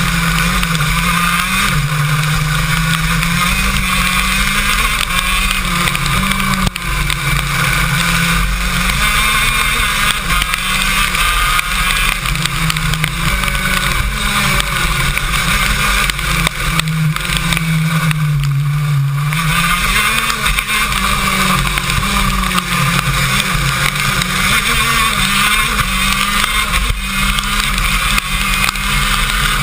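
KZ2 shifter kart's 125cc two-stroke engine running continuously, its revs rising and falling, with a short drop in revs about two-thirds of the way through.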